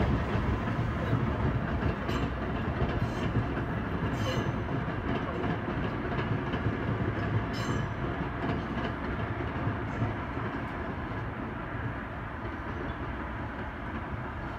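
Trains running on the tracks below: a Tokaido Shinkansen rushing past and a JR Central 313-series electric train rolling by, heard as a steady rumble with a few light clicks. The sound eases a little after about ten seconds, once the Shinkansen is gone.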